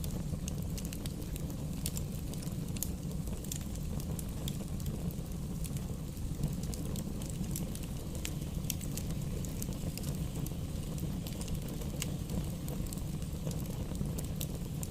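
A fire burning in a fireplace, crackling steadily, with frequent sharp little pops over a low rumble.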